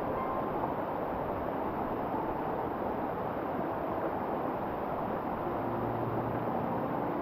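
Waterfall: the steady, even rush of water falling into a mountain stream.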